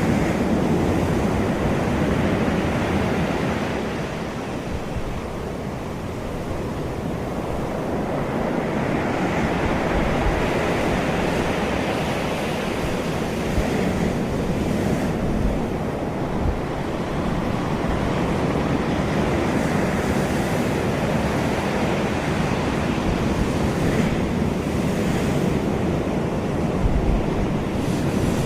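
Sea waves breaking and washing on a shore, the surf swelling and easing, with wind buffeting the microphone.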